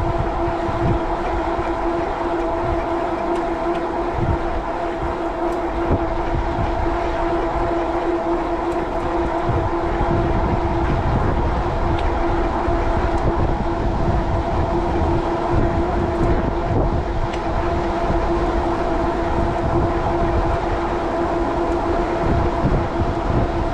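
Fat-tire e-bike under way at a steady speed, giving a constant whine, with gusting wind rumbling on the microphone.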